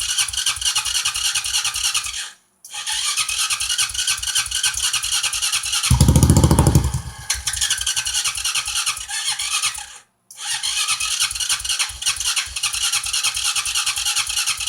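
ATV engine being cranked by its electric starter in three long tries, a fast even chugging broken by two short pauses, without starting. About six seconds in there is one louder, deeper surge lasting about a second before the cranking carries on. The owner takes the no-start for a flooded engine, after running watered-down gas.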